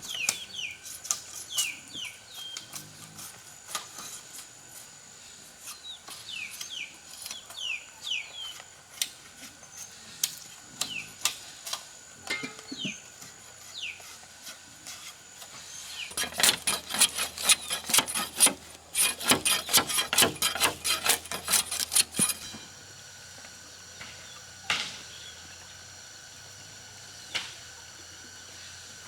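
Birds chirping in short falling notes, repeated many times, over a steady high-pitched whine. About sixteen seconds in, a run of rapid dry clicking and rustling lasts several seconds.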